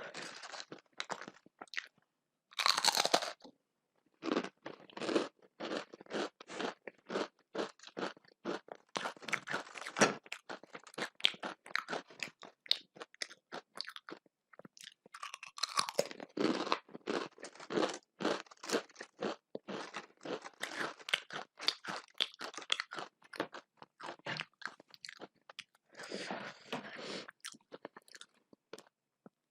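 A person chewing and crunching food close to the microphone, a rapid run of small crunches. Louder, longer bursts come about three seconds in, around sixteen seconds and near twenty-six seconds.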